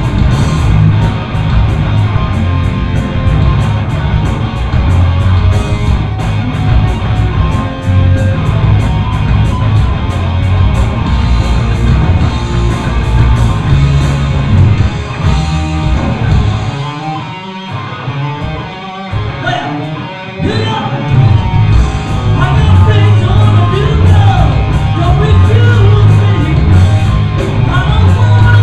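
Live hard-rock band playing loud, heavily distorted music: electric guitar, bass and drums. About two-thirds through, the bass and drums drop out for a few seconds, leaving the guitar more exposed, then the full band comes crashing back in.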